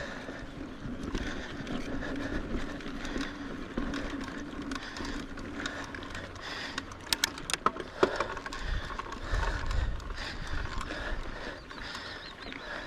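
Mountain bike riding a rough dirt trail: the rear hub ratchets while coasting, with clicks and rattles over bumps and a few sharp clanks a little after seven seconds in.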